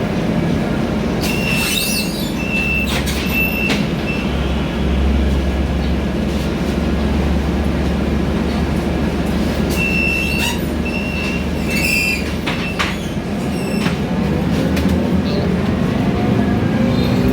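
Inside a Scania K320iA CNG city bus on the move: steady engine and road noise with a deep hum. Twice, about two seconds in and again about ten seconds in, come a few short high-pitched squeals or beeps of the same pitch, with clicks and rattles.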